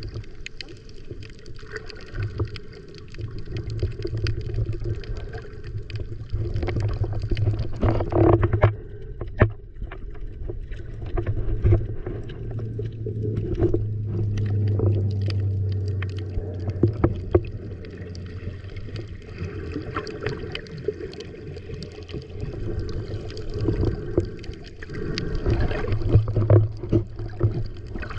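Muffled water sloshing and gurgling around a camera during snorkeling, with scattered short clicks throughout.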